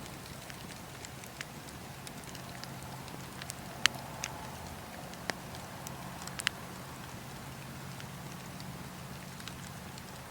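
Wood fire burning in a fireplace, with a steady low rumble and scattered sharp crackles and pops, the loudest about four seconds in and a quick few more a couple of seconds later.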